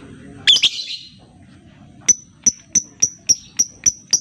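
Lovebird giving one short harsh screech about half a second in, then from about two seconds a run of sharp, evenly spaced high ticks, about three or four a second: the 'ngetik' ticking call.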